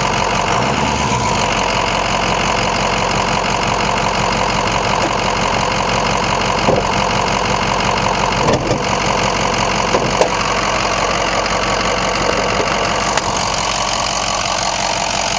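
Ford 6.0L Powerstroke V8 turbo diesel running steadily, heard up close from under the hood, with a few brief sharp clicks through the middle.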